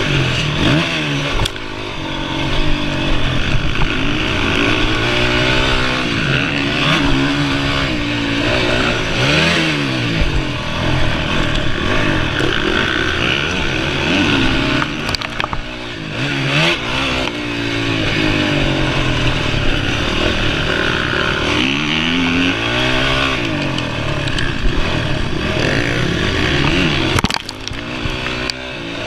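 Honda CRF450R's single-cylinder four-stroke motocross engine being ridden hard, its pitch climbing and dropping over and over as the throttle is opened and shut, with a few sharp clacks.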